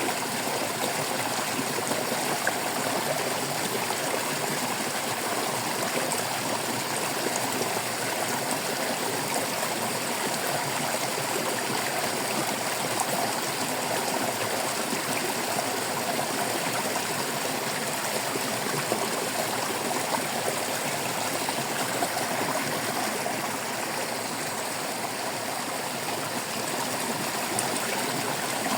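Stream water babbling and trickling over stones, a steady, even flow.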